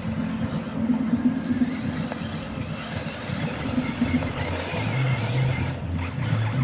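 Brushless electric 1/10-scale RC truck driving over loose, dry dirt, its motor and tyres running continuously.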